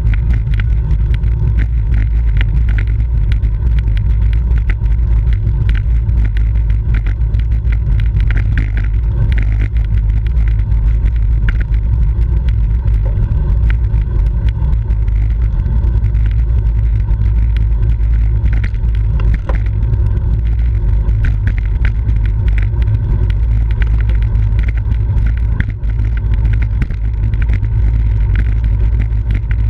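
Wind buffeting the microphone of a camera on a moving bicycle: a steady, loud low rumble with many small clicks and rattles over it.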